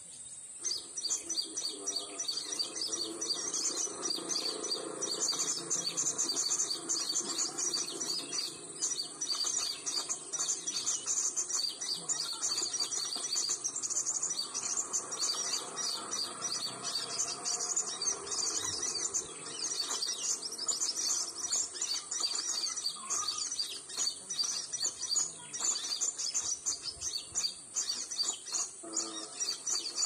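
Small songbirds chirping and twittering, high-pitched and rapid, without pause, over a steady high-pitched insect hum.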